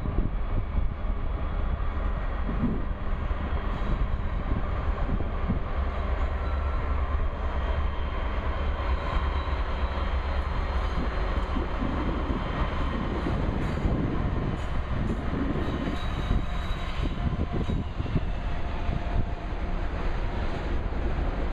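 Heavy CSX coal train rolling by: a steady low rumble of wheels on the rails, with scattered clatter and knocks.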